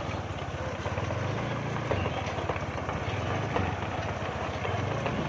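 Kubota L5018 tractor's diesel engine running steadily, with a low, even drone.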